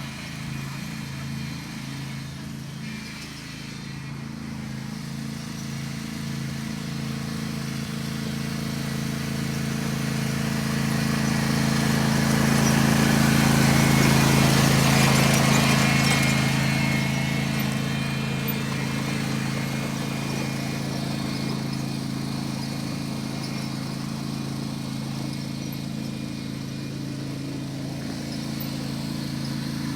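Riding lawn mower engine running steadily, growing louder as it passes close by about halfway through, then fading as it moves away.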